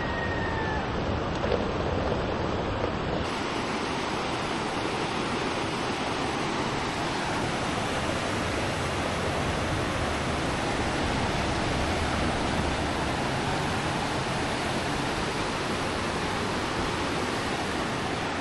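Raging floodwater rushing through a flooded wadi: a steady, full hiss of fast-flowing water.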